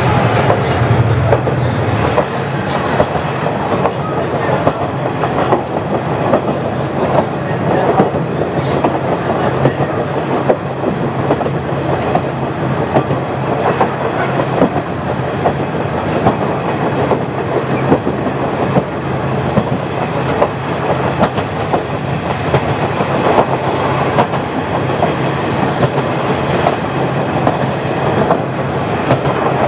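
KiHa 40 diesel railcar running along the line: steady rail noise with wheels clacking over the rail joints, and a low engine hum underneath that is stronger for the first couple of seconds.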